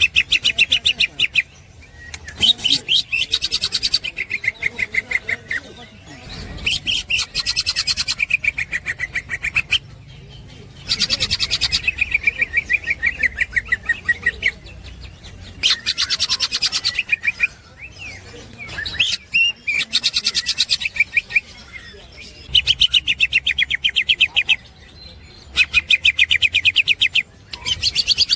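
Green leafbird (cucak ijo) singing its rapid chattering 'ngekek' song: about nine bouts of fast, evenly spaced notes, each lasting two to four seconds, with short pauses between.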